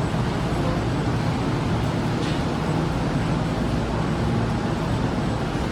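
Steady running noise inside a KTX-Cheongryong high-speed train's passenger cabin: a low rumble under an even rush of noise.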